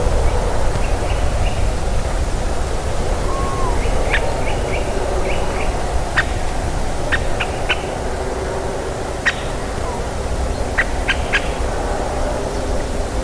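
Woodpecker and nuthatch calling to each other: short, high call notes in quick runs in the first half, then sharp single call notes scattered through the second half, over a steady low background rumble.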